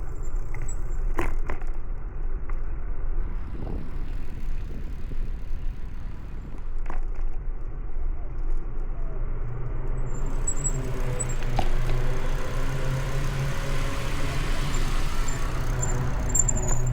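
Street traffic heard from a moving bicycle: a steady low rumble of wind and road noise on the microphone, with a couple of sharp clicks. From about ten seconds in, a motor vehicle's engine grows louder and stays loud to the end.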